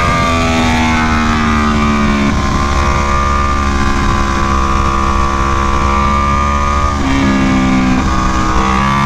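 2017 Aprilia Tuono V4 1100 Factory's V4 engine running hard on track, its pitch sliding up and down with the revs and stepping sharply at gear changes about two and seven seconds in.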